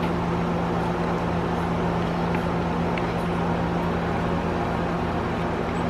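A steady machine hum, one constant low drone with overtones and an even background rush, with a few faint ticks.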